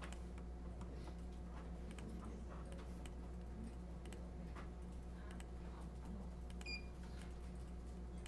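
Faint scattered clicks of computer mouse and keyboard use over a steady low electrical hum, with one brief high chirp late on.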